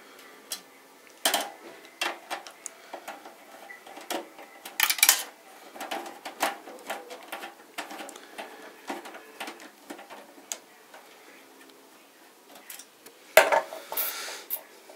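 Hands fiddling inside a computer case: scattered clicks, taps and light rattles of metal and plastic parts, with louder knocks about a second in, around five seconds in and near the end.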